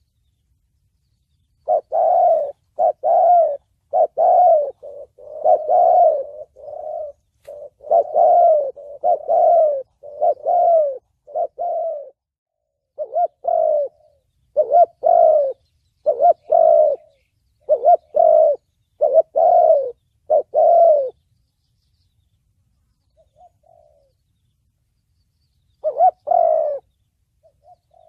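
Spotted dove cooing in the deep 'thổ bầu' voice prized as a lure call by Vietnamese dove keepers and trappers: a long run of repeated coo phrases, a pause of several seconds, then one more phrase near the end.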